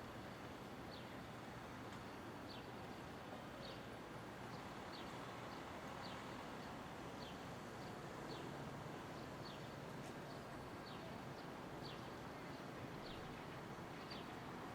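Steady city street noise with a small bird chirping over it: short, high, falling chirps repeated irregularly, about one a second.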